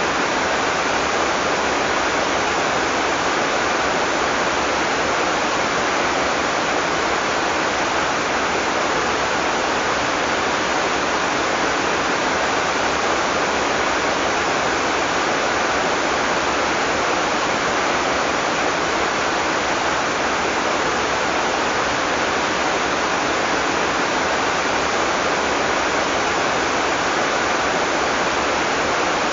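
Heavy tropical rain falling steadily: a dense, even hiss with no thunder.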